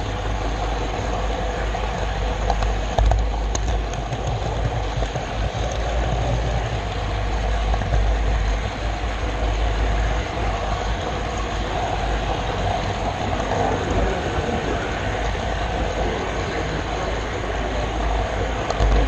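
Model railroad camera car rolling along the track with the camera riding on it: a steady rumble of wheels on rail with a few faint clicks.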